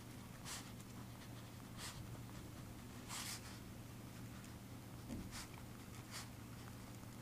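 Handwriting on paper: about five short, faint scratchy pen strokes spaced irregularly, with the longest a little after three seconds in.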